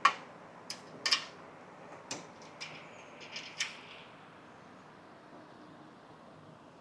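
A series of light metallic clicks and clinks, about seven in the first four seconds, from flat washers being handled and set onto the rear axle housing studs.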